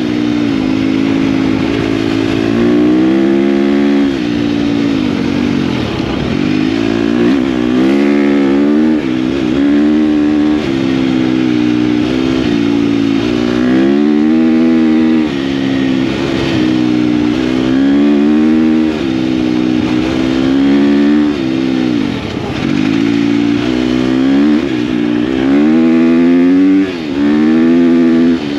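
KTM dirt bike engine under way, its pitch rising and falling over and over as the throttle is opened and closed.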